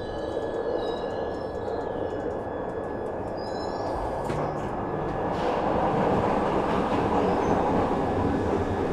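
Glasgow Subway train running, a steady rumble with a thin high whine over it that grows louder a little past halfway.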